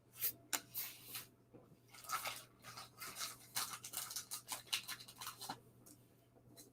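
Trading cards being handled: a run of short, scratchy rustles as cards slide against each other and are flipped through, stopping about five and a half seconds in.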